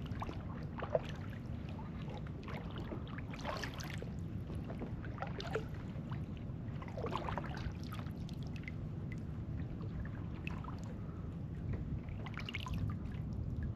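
Water lapping and trickling against a kayak sitting still on calm water: irregular small splashes and drips over a steady low rumble.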